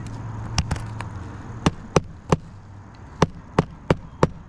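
Hammer strikes, about nine sharp blows at an uneven pace, a few each second, during roof shingle repair work.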